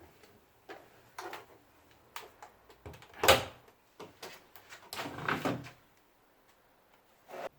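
A series of household knocks and clunks, like a door or cupboard being handled. The loudest is a sharp knock about three seconds in, followed by a longer rattling clatter a couple of seconds later and a short knock near the end.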